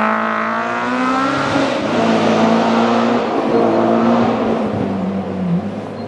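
Classic rally car's engine running hard at high revs. Its pitch rises and falls with throttle and gear changes, dropping sharply near the end.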